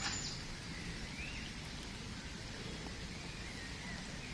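Quiet outdoor ambience: a steady low rumble of noise with a few faint bird chirps.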